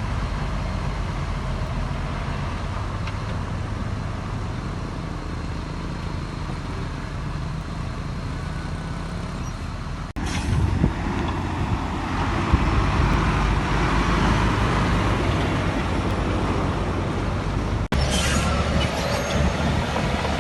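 Heavy diesel earthmoving machinery running steadily with a low engine rumble. The sound breaks off abruptly twice, about ten and eighteen seconds in, and is louder and harsher after the first break.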